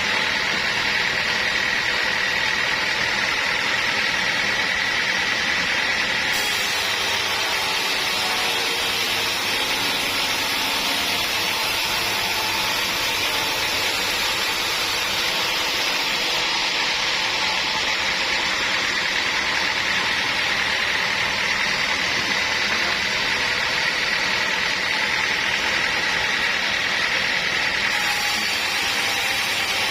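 Sawmill machinery running steadily: a loud, even mechanical noise with a faint high whine over it.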